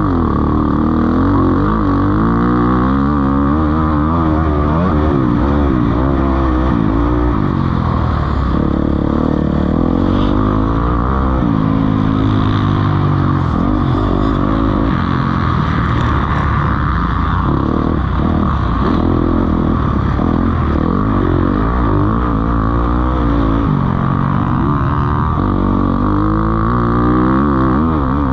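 Several motocross bikes racing together, their engines revving up and dropping back again and again as they shift gears and go through corners and jumps.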